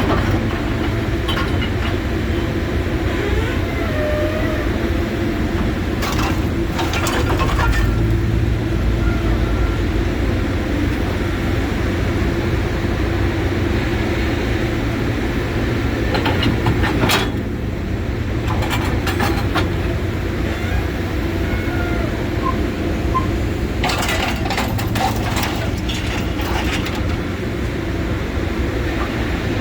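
Scrap-handling machine's engine running steadily while its magnet pulls cast iron radiators and boilers out of a pickup bed, with bursts of metal clanking and scraping about six seconds in, around seventeen seconds, and again for a few seconds near twenty-five seconds.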